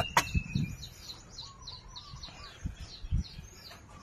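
Small birds chirping: a quick run of short, high, falling chirps, about four or five a second. There are two sharp clicks at the start and a couple of dull knocks about three seconds in.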